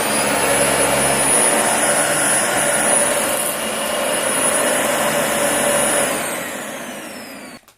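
Dyson DC40 upright vacuum cleaner running with a steady high whine, then switched off about six seconds in, its whine falling and the noise dying away as the motor winds down.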